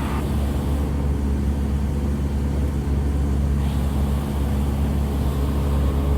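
Single piston engine of a Cessna light aircraft running steadily in cruise, a constant low drone heard from inside the cockpit.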